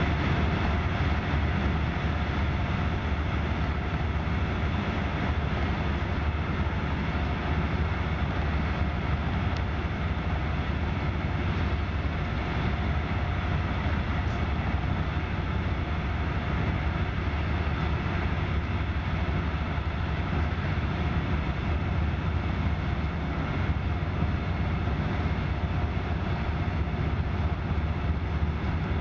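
Steady running noise of a moving passenger train heard from inside the carriage: a low rumble with a hiss over it.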